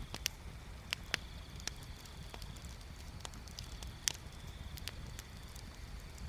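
Wood fire crackling: irregular sharp pops and snaps of burning wood, the loudest about four seconds in, over a low steady rumble. A faint steady high-pitched tone runs in the background.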